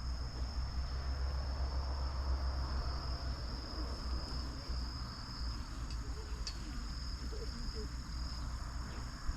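Insects, most likely crickets, trilling in a steady high-pitched chorus, with a low rumble underneath.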